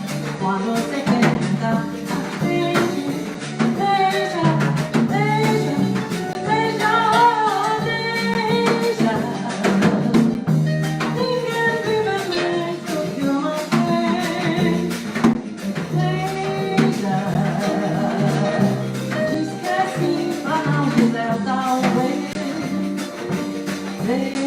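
Small Brazilian-jazz ensemble with harp playing live, a sung melody over plucked strings and light percussion keeping a steady beat.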